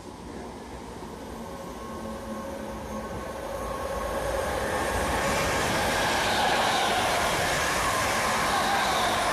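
An electric multiple-unit passenger train approaches along the platform and runs past close by. It grows steadily louder over the first five seconds, then holds at a steady rumble of wheels on rail with a faint whine.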